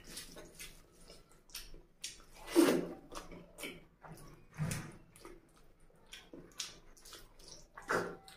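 Close-miked wet chewing and lip smacking, with squelching of rice and oily curry gravy squeezed by hand. It comes as a run of short wet clicks and smacks, with a few louder ones, the loudest about two and a half seconds in.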